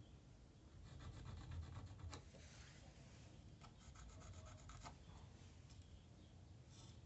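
Faint scraping in two short runs of quick, even strokes, about a second in and again about four seconds in.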